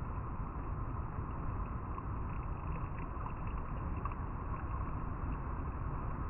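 River water flowing over rocks: a steady rushing babble with small splashes and drips flickering through it.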